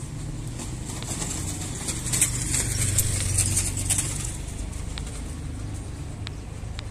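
Birds: a flurry of high, crackly chirps, loudest from about two to four seconds in, over a steady low rumble of background noise.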